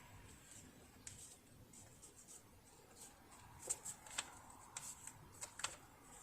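Faint handling noises: light rustling, with a run of small, sharp clicks between about three and a half and six seconds in.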